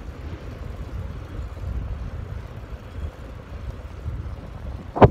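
Low, gusting rumble of wind buffeting the microphone while riding a bicycle, with a single sharp knock just before the end.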